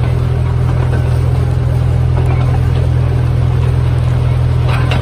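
Narrow-gauge train running along the track, heard from a carriage: a steady low engine drone over the rumble of the wheels on the rails, with a couple of sharp clicks near the end.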